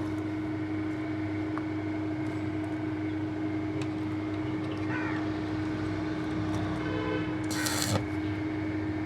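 Steady mechanical hum with a constant tone, with a short hiss about three-quarters of the way through.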